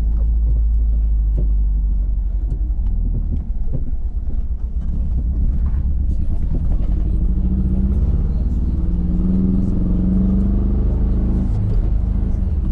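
Mazdaspeed3's turbocharged 2.3-litre four-cylinder pulling the car up through the gears. The engine note rises steadily for several seconds and then drops suddenly at a gear change near the end. The engine has a misfire on the fourth cylinder.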